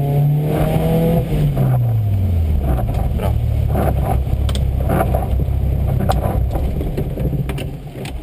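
Škoda Fabia 1.4 rally car engine heard from inside the cabin, held at steady revs, then falling in pitch about a second in and settling into a low rumble. Scattered short clicks and knocks come through over it.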